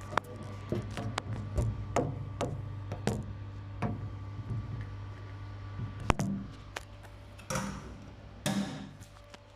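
Arielli AWM-7128N washing machine running: a steady hum with repeated sharp clicks and knocks, then two short swishing rushes near the end, after which the hum stops.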